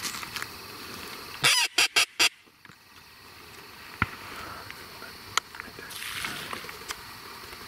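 A loud series of duck quacks about a second and a half in: one longer quack followed by three short ones in quick succession. A couple of sharp clicks follow a few seconds later.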